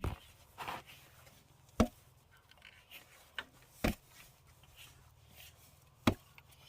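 Knife chopping food on a board: four sharp strokes about two seconds apart, with lighter taps between them.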